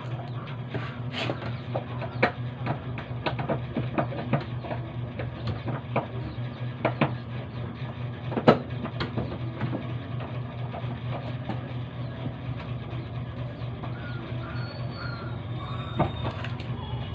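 Irregular clicks and knocks of hand-tool work on washing machine parts, with one sharper knock about eight and a half seconds in, over a steady low hum.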